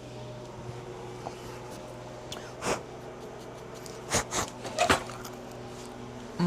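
Steady low machine hum, with a few short, crisp sounds: one about two and a half seconds in and a quick cluster between four and five seconds in.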